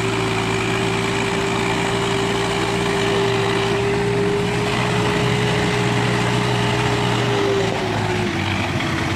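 Tractor diesel engine running steadily under load, with a steady whine over a low drone; the pitch dips slightly near the end.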